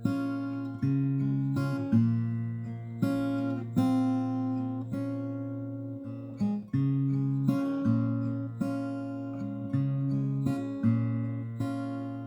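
Background music: acoustic guitar strummed chords, each strum ringing out and fading before the next.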